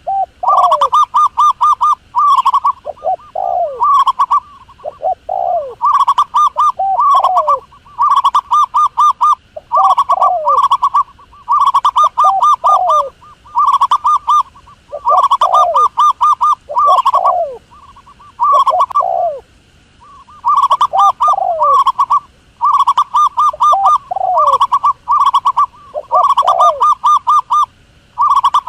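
Dove calling over and over: rapid trilled coos, each followed by a few short falling notes, repeating about every two seconds.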